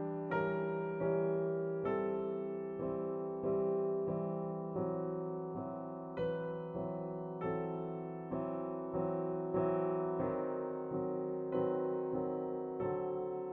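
Slow piano music: notes struck at an even pace, about one and a half a second, each fading before the next.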